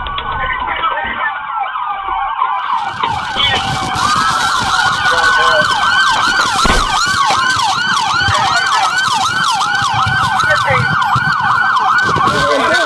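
Several police car sirens sounding at once, in fast rising-and-falling yelp cycles that overlap, over the rumble of a moving patrol car.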